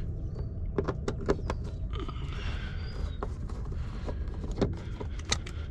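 Scattered small clicks and taps of a hand tool and hard plastic parts as the door speaker is unscrewed with a T20 Torx key and lifted out of a Jeep door, over a steady low hum.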